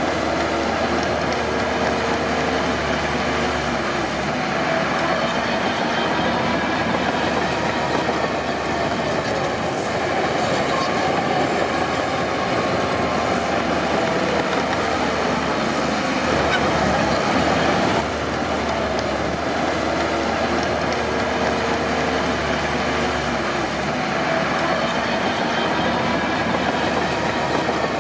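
Crawler bulldozer at work: its diesel engine runs steadily while the steel tracks squeal and clank, with a wavering squeal that rises and falls.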